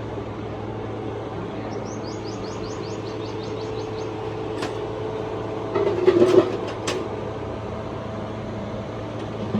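Workshop sounds over a steady mechanical hum: a quick series of small bird chirps about two seconds in, then a cluster of clatter and knocks around six seconds in, the loudest moment.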